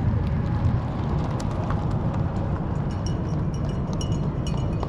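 Many marathon runners' footfalls slapping on the road as the field passes, over a steady low rumble. Short high beeps repeat from about three seconds in.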